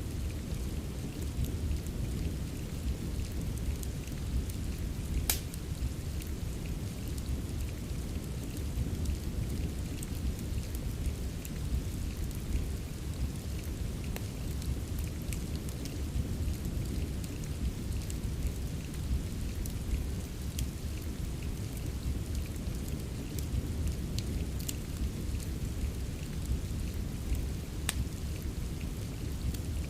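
Steady rain with a deep low rumble, mixed with the irregular sharp pops and crackles of a wood fire in a fireplace. The loudest pop comes about five seconds in.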